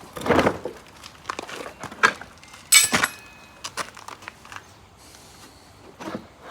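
Irregular knocks and clicks of lawn mower parts and tools being handled during disassembly. The loudest is a sharp clatter with a brief ring about three seconds in.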